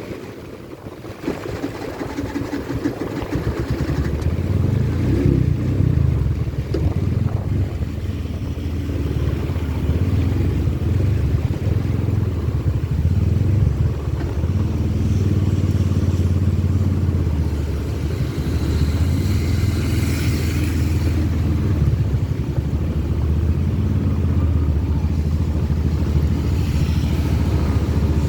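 Motor vehicle engine running steadily on the road as it travels in heavy rain: a low droning hum with a hiss of rain and wet road over it. The hiss swells briefly around twenty seconds in.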